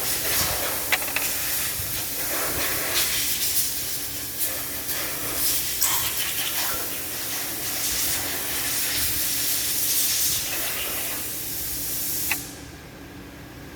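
A pressurised spray hissing steadily, with small ticks through it, then cutting off abruptly with a click about twelve seconds in.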